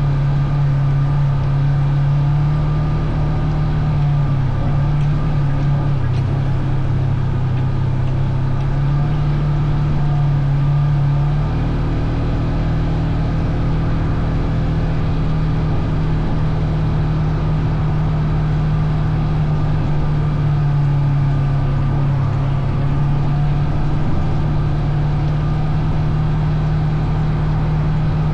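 Off-road vehicle's engine running steadily while riding, a constant low drone that shifts slightly in pitch about four seconds in and again about eleven seconds in.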